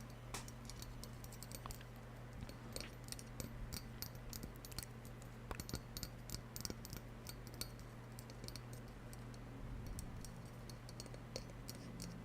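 Faint, irregular clicks and light taps, a few every second, like small objects being handled close to the microphone, over a steady low electrical hum.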